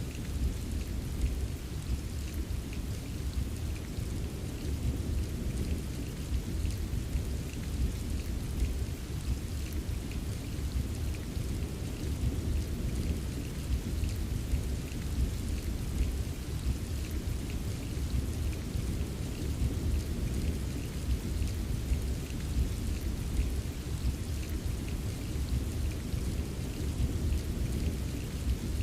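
Steady rain pattering, over a constant deep rumble of distant rolling thunder.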